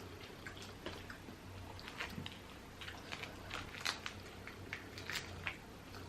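Quiet eating of boiled crawfish: small irregular clicks and cracks of the shells being peeled, with chewing.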